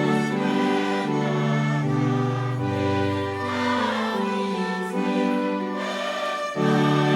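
Mass choir singing a hymn in slow, sustained chords with instrumental accompaniment, the bass note changing every second or so; a full new chord comes in loudly about six and a half seconds in.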